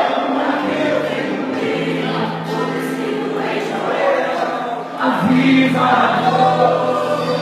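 Live gospel worship music: a group of voices singing over sustained keyboard-like chords, swelling louder about five seconds in.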